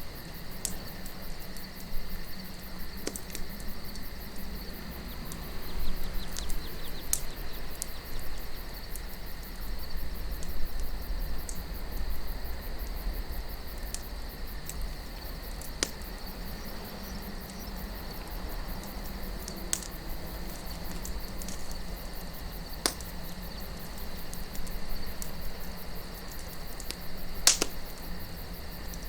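Wood campfire crackling, with a sharp pop every few seconds over a softer crackle, above a low steady wind rumble and a steady high trill of crickets.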